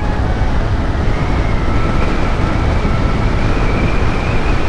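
Wind rushing over the microphone of a moving motorcycle, mixed with engine and road noise, loud and steady, with a faint steady whine above it.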